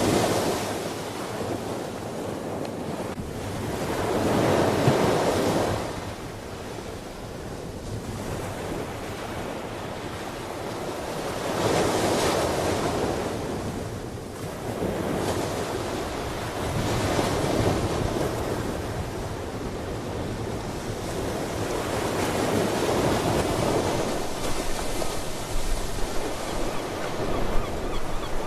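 Ocean waves breaking and washing ashore, swelling and easing about every five to six seconds, with wind on the microphone.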